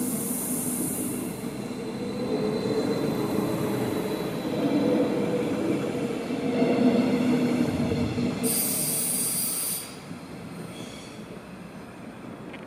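Thurbo Stadler GTW electric multiple unit pulling out and rolling past along the platform: a steady hum and whine with wheel squeal over the rolling noise, and a short sharp hiss just before the sound drops away. Then a fainter rumble as another GTW approaches from afar.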